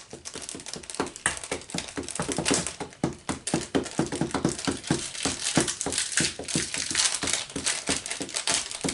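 Plastic wrapper of a gummy candy pack crinkling and crackling as it is handled and opened, a dense run of quick crackles.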